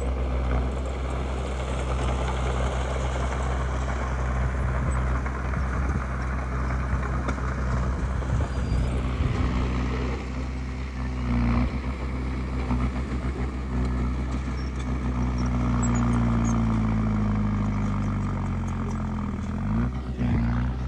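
Diesel engine of heavy earthmoving machinery running steadily. Near the end its pitch sags for a few seconds and then climbs quickly as the engine picks up.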